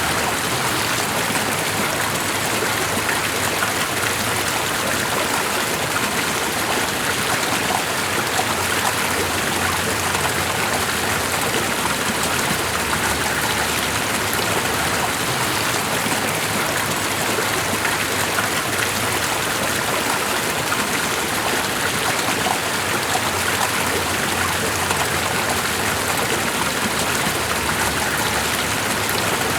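Steady rushing water, even and unchanging, with fine splashing detail throughout.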